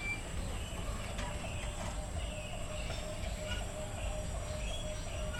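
Birds calling, short high chirps and repeated wavering calls, over a steady low rumble.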